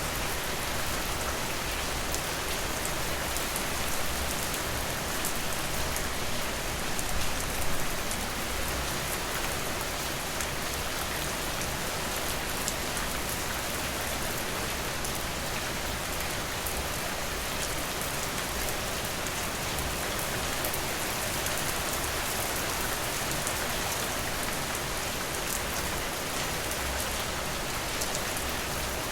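Steady rain falling: a dense, even hiss made of many fine drop taps, swelling slightly a few times in the first eight seconds.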